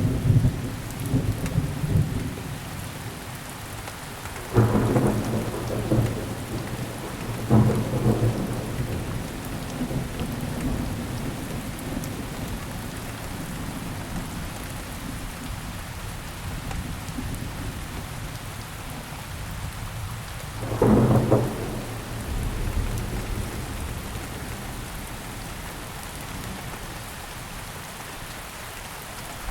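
Steady rainfall hissing on surfaces, with thunder: a low rumble at the start, then three sharper peals that set in suddenly and roll away, about four and a half, seven and a half and twenty-one seconds in.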